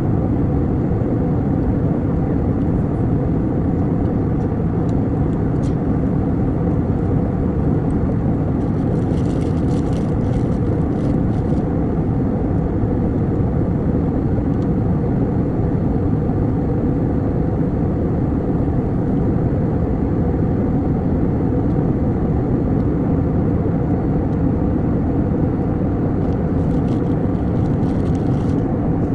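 Steady cabin noise of an airliner in flight, the even engine and airflow noise heard inside the passenger cabin, with a few faint clicks about a third of the way in and again near the end.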